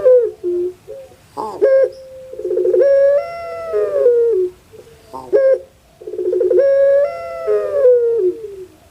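Puter pelung, a long-calling Barbary dove, giving its long crow-like coo. Each call opens with a rapid stutter, holds a long pitched note and falls away at the end, repeating about every three and a half seconds, with a short sharp call in between.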